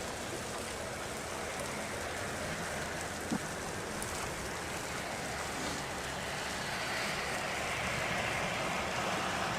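Steady patter of freezing rain, with one short click about three seconds in and a slowly swelling hiss near the end.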